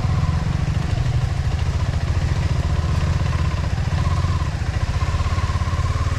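Motorcycle engine running steadily at low revs, with a fast, even low pulse.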